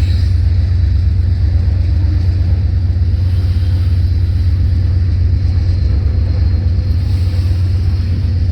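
Steady, deep rumble of a diesel freight train, loud and even throughout.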